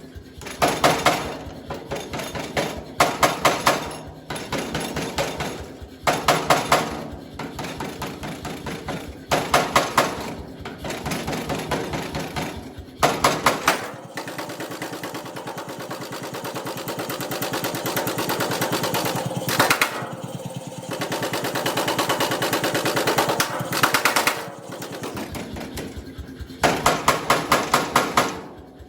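Hammer blows on steel being forged into a knife, coming in short rapid bursts, with one long unbroken run of fast blows in the middle.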